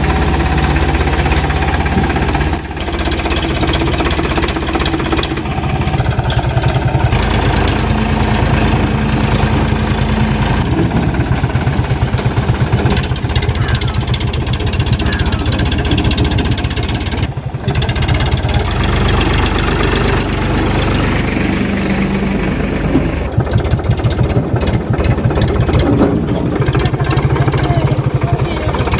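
Powertrac Euro 50 tractor's diesel engine running, with a steady clattering diesel knock.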